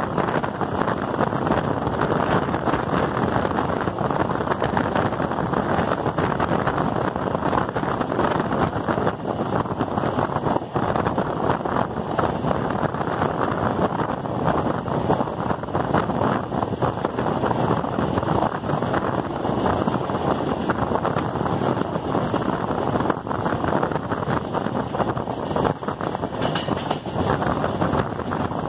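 Steady rushing noise of an express passenger train running at speed, heard from the coach doorway: wheels on the rails and wind buffeting the microphone.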